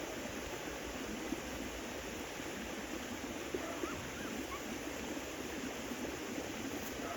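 Steady rushing of running water, with a few faint short chirps about three seconds in.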